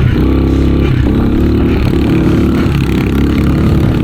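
110cc pit bike's single-cylinder four-stroke engine running hard under throttle through deep snow, its pitch dipping and climbing again several times.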